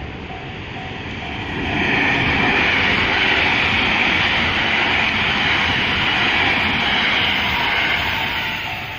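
Train passing close by, its running noise swelling about two seconds in, holding steady, and easing off near the end. A level-crossing warning bell rings with an even, repeating tone before the train drowns it out and again as it fades.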